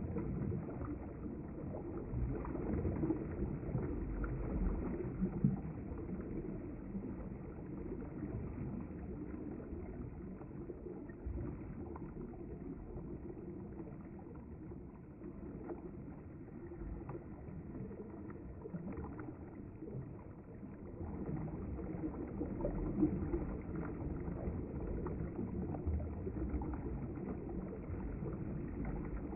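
River water flowing, a steady low rush that eases slightly midway and swells again.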